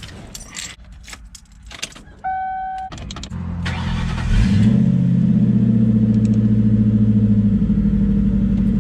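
Keys jangling and clicking, a short electronic beep about two seconds in, then a car engine cranks and starts about three and a half seconds in and settles into a loud, steady idle.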